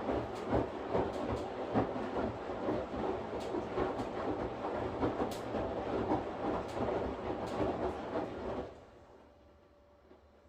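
Washing machine running, a dense rumble with irregular knocks and clatter. It cuts off abruptly about nine seconds in, leaving only a faint low hum.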